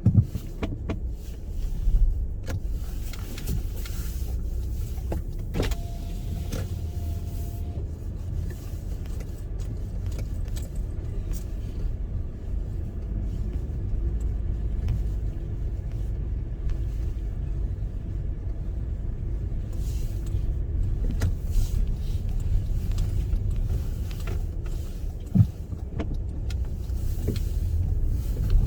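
A car driving, heard from inside the cabin: a steady low rumble of engine and road noise, with a few sharp knocks and clicks along the way.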